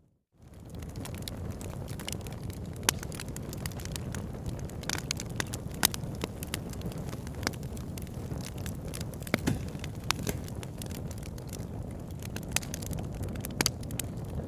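Wood fire burning in a fireplace: a steady low rumble of flames with sharp crackles and pops scattered irregularly throughout. It opens with a brief drop to silence, then fades back up.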